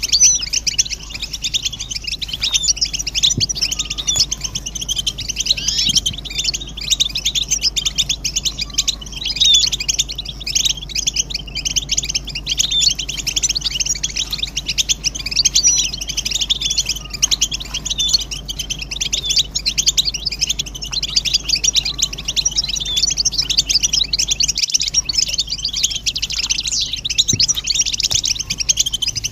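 European goldfinches twittering and calling in a dense, unbroken chorus of quick high chirps and trills. This is the excited group chatter and mating-readiness calls used to stimulate male goldfinches to sing.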